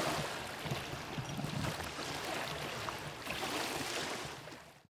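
Wind gusting over the microphone and water noise around a small boat, with a faint low hum underneath. It swells twice and then fades out just before the end.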